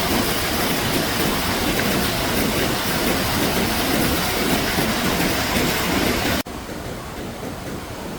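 Rushing floodwater, a loud steady noisy rush. About six and a half seconds in it cuts off abruptly to a quieter rush of water.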